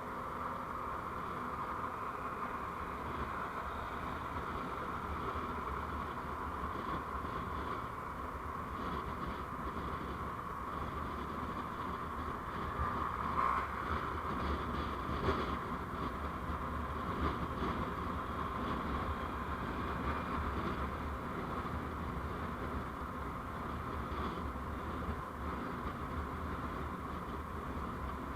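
Steady engine and road noise from a vehicle on the move, with two brief louder bumps near the middle.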